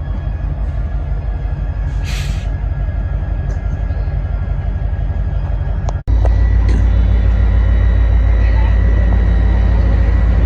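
Train rumbling low and steady, with a short air hiss about two seconds in. The sound cuts out sharply about six seconds in and returns as a louder rumble.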